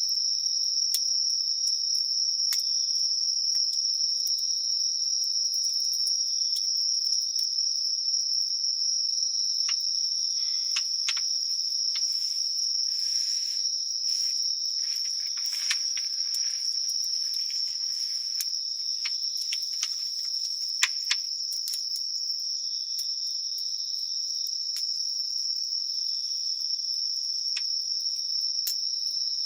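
A chorus of crickets and other night insects keeps up a steady high-pitched trill. Over it, a wood campfire gives scattered crackles and pops, the two loudest about two-thirds of the way through.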